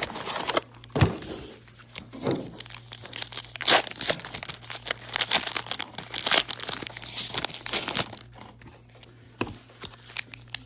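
Trading card packaging being torn open and crinkled by hand, in irregular rips and rustles, over a faint steady hum.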